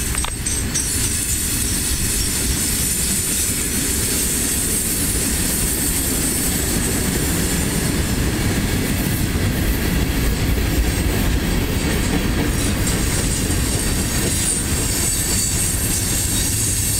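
Freight train cars (coal hoppers, then tank cars and covered hoppers) rolling past on steel wheels: a steady rumble with a high hiss over it.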